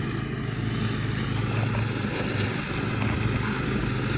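Riding lawn mower engine running steadily under load while mowing.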